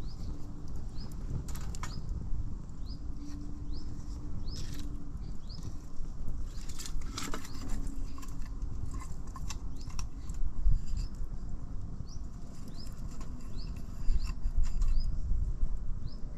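A small bird in the woods calling over and over with a short rising note about once a second, with scattered clicks and knocks and a low rumble underneath.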